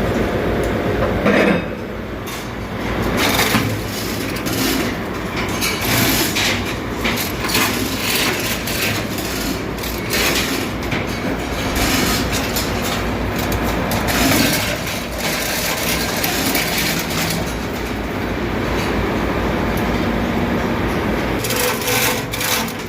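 Steady din of ship engine-room machinery with a low hum, broken by frequent short metallic knocks and clanks from work on the main engine air cooler.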